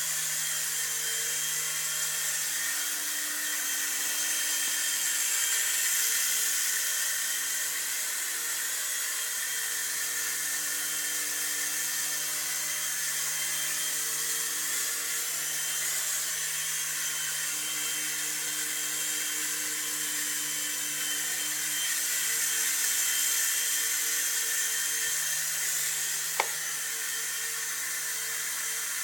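Micro remote-control helicopter's small electric motor and rotors running steadily, a high whine over a hiss that swells slightly now and then. A single sharp click near the end.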